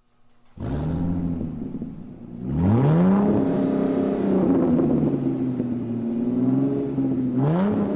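A car engine revving, laid over the logo animation. It starts about half a second in, climbs sharply in pitch about two and a half seconds in and holds there, then revs up again near the end.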